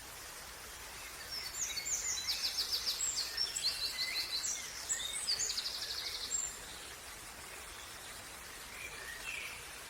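Songbirds singing a busy, high-pitched song of quick chirps and trills, starting about a second in and stopping after about six seconds, then a few fainter calls near the end, over a steady faint outdoor hiss.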